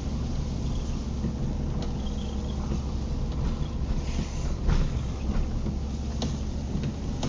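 Car driving in the rain, heard from inside the cabin: a steady low rumble of engine and tyres on wet road, with a few short clicks and a brief swish about halfway through.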